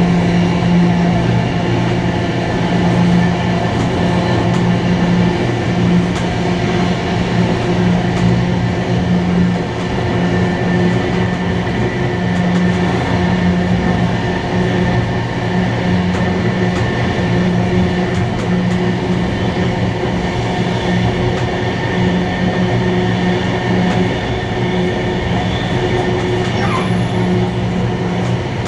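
Train running at a steady pace along the line: continuous running noise with a steady low hum and no break.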